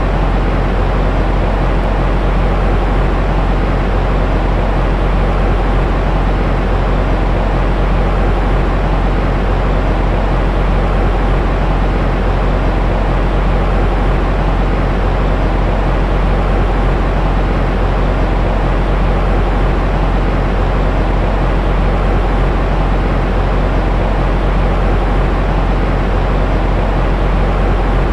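Steady, unchanging noise of a baby sleep-sound track, with a deep low-end rumble under an even hiss that fades in the highest range.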